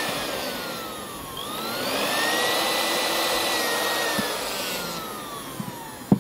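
Large CH-brand electric sewing machine motor spinning with a high whine. It slows about a second in, speeds back up, then winds down slowly over the last two seconds. A short knock comes at the very end.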